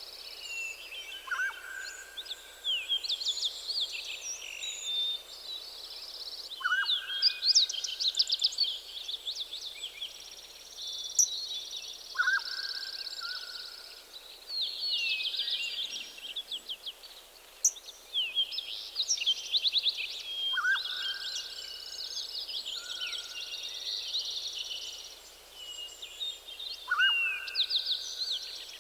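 Several songbirds singing at once, a busy mix of high rapid trills and chirps. One lower whistled call, a short downward slide into a held note, comes back about every five or six seconds.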